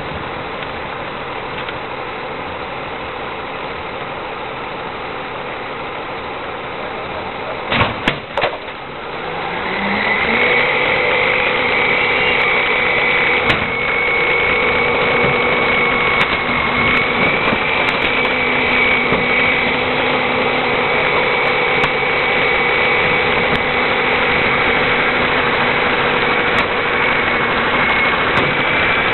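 Heil 5000 rear-loader garbage truck engine running steadily. About eight seconds in there are two sharp clunks, then the engine rises in pitch and holds a louder, steady run with a constant high whine.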